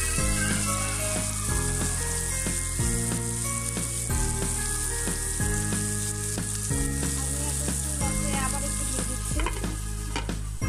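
Kachki fish with onion, potato and tomato frying in oil in a nonstick wok, sizzling steadily, with scattered clicks of stirring.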